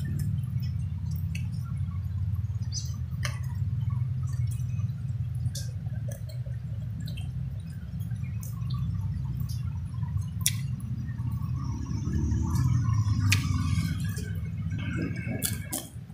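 Close-miked wet eating sounds: scattered mouth clicks and smacks while chewing rice and fish eaten by hand. Underneath is a steady low rumble that stops abruptly right at the end.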